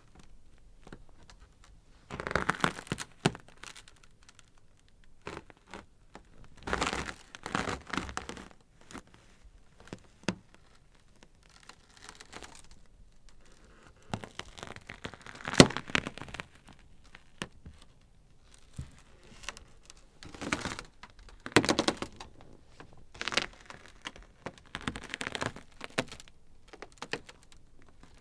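Ice crackling: irregular clusters of sharp cracks and crinkling snaps every few seconds, with quiet gaps between, the sharpest single snap about halfway through.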